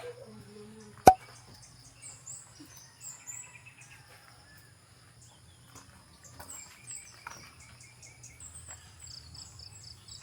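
Outdoor ambience of insects trilling steadily at a high pitch and birds chirping in short repeated calls, with a single sharp click about a second in.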